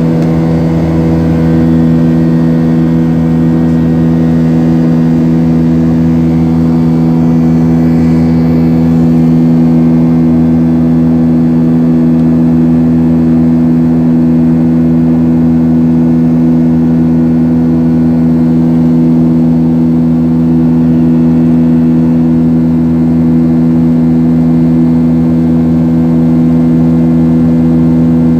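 Aircraft engines droning steadily, heard inside the cabin in flight: an even hum with several steady low tones over a constant rumble, unchanging throughout.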